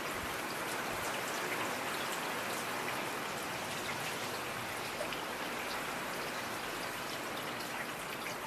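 Steady rain falling, with many small drop ticks against a constant hiss.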